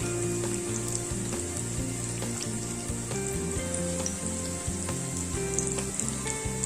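Briouats, small Moroccan pastry parcels, sizzling as they fry in hot oil: a steady hiss with scattered small crackles. A light backing tune plays underneath.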